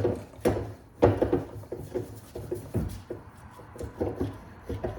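Irregular knocks and clunks of metal tools against a driveshaft's double cardan joint as a U-joint bearing cap is worked free. Several sharp knocks come in the first few seconds, then lighter handling noises.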